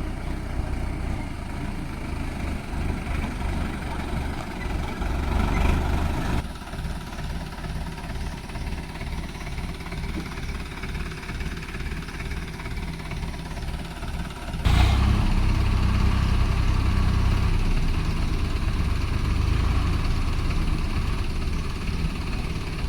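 Diesel tractor engines running with a steady low pulsing beat. The sound changes abruptly twice and is louder from about two-thirds of the way through.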